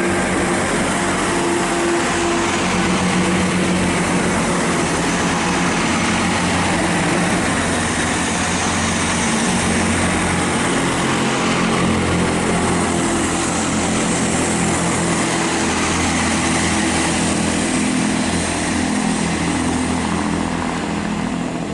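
Diesel engines of a pair of coupled Class 166 Networker Turbo diesel multiple units running steadily and loudly at the platform, with a low engine note that drifts slightly in pitch.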